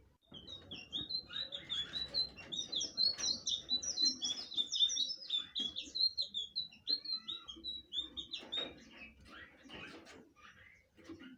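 Blue flycatcher (sikatan biru) singing: a fast, dense run of short, high chirping notes that thins out near the end.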